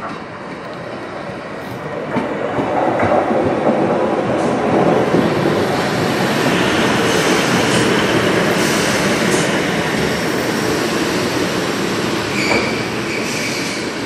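Single-car Class 153 diesel multiple unit running into the station past the listener: diesel engine and wheels on rail, growing louder about two seconds in and staying loud. A short high squeal comes near the end.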